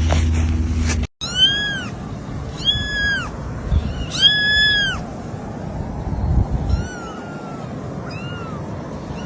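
Kitten mewing: three loud, high-pitched mews that each rise and fall, then several fainter ones. Before them, a steady low hum cuts off about a second in.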